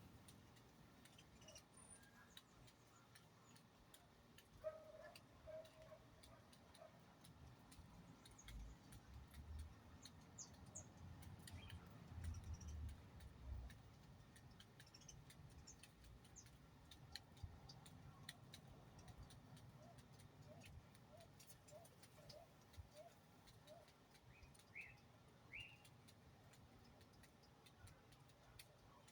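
Near silence with faint, scattered bird chirps: short notes about five seconds in, a quick string of short notes near the two-thirds mark, and a couple of higher chirps soon after. Faint clicks sound throughout.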